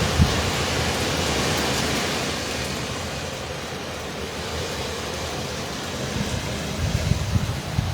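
Hurricane wind and rain, a steady rushing noise that eases somewhat in the middle, with gusts buffeting the microphone near the end.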